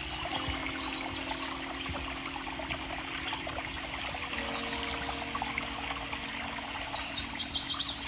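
Running water trickling, under background music that holds sustained notes. A louder burst of rapid high chirps comes near the end.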